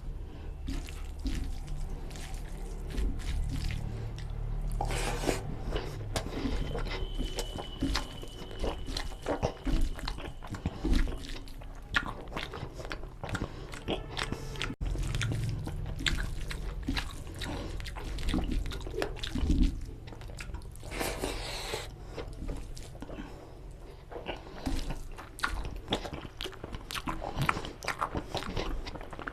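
Close-up eating sounds of mutton nalli curry with rice: steady chewing and biting, with many short wet mouth clicks throughout.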